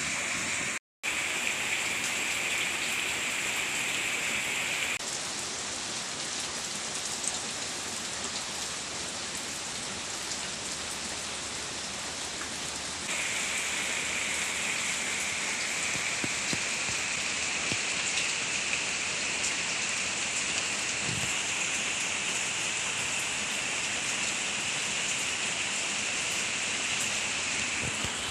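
Steady rain falling, an even continuous patter on surfaces, broken by a brief silent cut about a second in.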